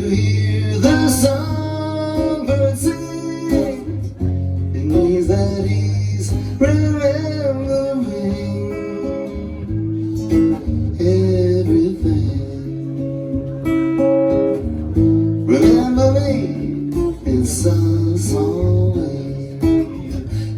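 Acoustic guitar playing a passage of a slow song, strummed and picked.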